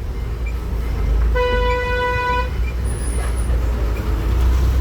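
A vehicle horn sounds once, a single steady note held for about a second, over a continuous low engine rumble.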